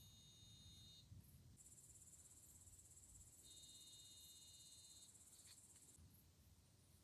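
Night insects chirping faintly: steady, high cricket trills, joined by a second, higher continuous buzz from about a second and a half in until about six seconds in.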